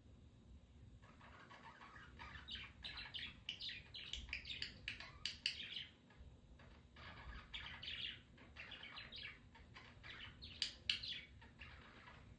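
Budgerigars chirping and chattering in quick runs of short calls, starting about a second in, with a brief pause midway.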